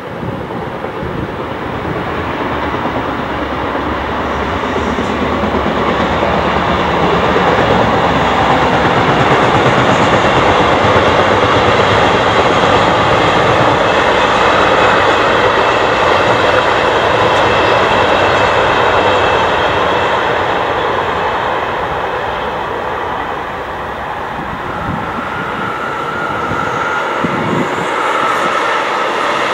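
Electric locomotive-hauled passenger train passing at speed: a continuous rush and rumble of wheels on rail that swells to a peak midway, eases, then rises again. A thin steady whine joins near the end.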